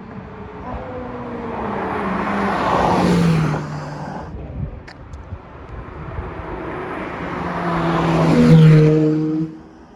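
Two Ferrari sports cars drive past one after the other. Each engine grows louder as it approaches and drops in pitch as it goes by. The second pass is the louder and cuts off suddenly near the end.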